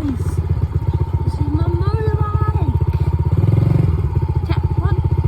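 Dirt bike engine running with a fast, even firing pulse, revving up briefly about three and a half seconds in.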